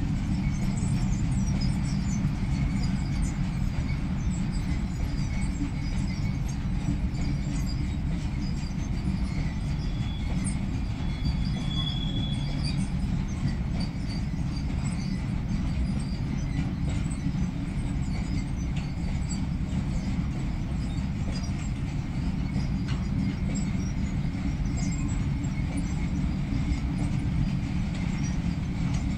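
Freight train rolling past: a steady low rumble of wagons on the track with scattered light clicks, and a brief thin high squeal about ten seconds in.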